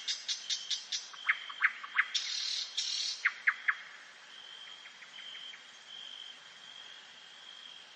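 Songbirds calling: a run of sharp ticks and short falling whistles with a brief raspy call in the first half, then a thin high note repeated evenly.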